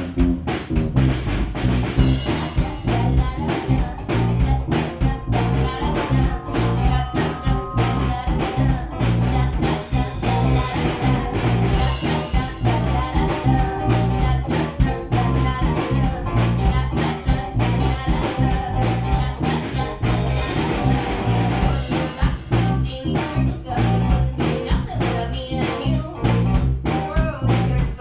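A live gypsy rock band playing a driving song with a steady drum-kit beat under bass, electric guitar and accordion.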